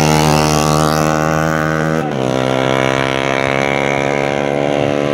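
150 cc racing motorcycle engines running at high revs with a steady, even engine tone, broken by a brief dip about two seconds in.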